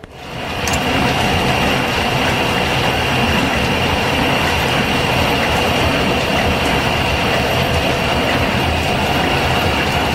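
Belt-driven metal lathe starting up and running steadily in back gear at low speed, set for cutting a square thread. A steady high whine sits over a rumbling mechanical clatter.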